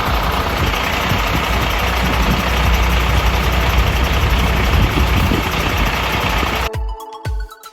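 A vehicle engine running steadily with a heavy low rumble, cutting off abruptly near the end, where background music comes back in.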